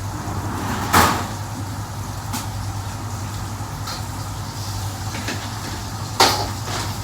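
Kitchen work sounds over a steady low hum: two sharp clattering knocks, about a second in and near the end, with a few lighter clicks between.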